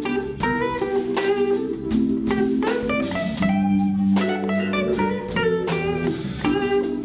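Live organ trio playing a slow soul-blues ballad instrumentally: Hammond B3 organ holding low chords, guitar playing single-note lines over them, and drums keeping a slow beat.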